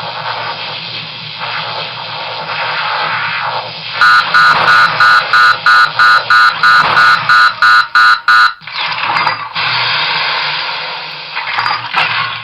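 Proton pack sound board playing the thrower-firing effect through its speaker: a continuous crackling stream over a low hum. From about four seconds in, a run of about a dozen loud alarm beeps comes at roughly three a second, then the crackling stream goes on.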